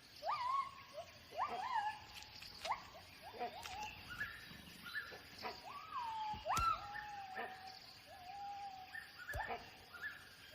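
Gibbons calling: a series of whooping notes that each sweep up in pitch and fall back, about one a second, some ending in a short held tone.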